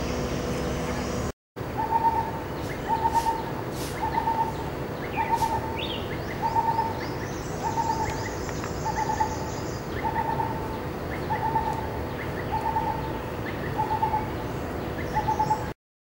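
A bird's low hooting note repeated steadily, about once every 0.8 s, with a few faint high chirps from other birds in the middle. For the first second or so a steady hum is heard before a brief dropout.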